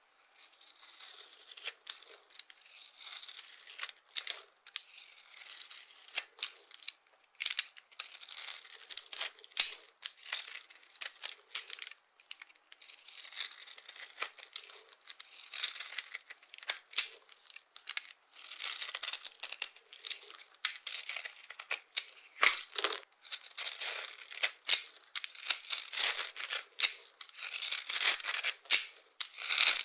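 Dry soap being crushed and broken up: crisp crackling and crunching in irregular bursts, growing louder in the last few seconds.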